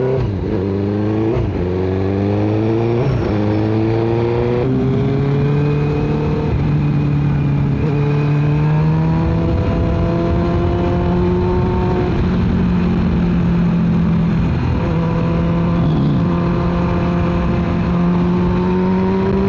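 Motorcycle engine accelerating through three quick upshifts, the revs climbing and dropping back with each gear, then settling into a steady cruise with gentle rises and falls in engine speed.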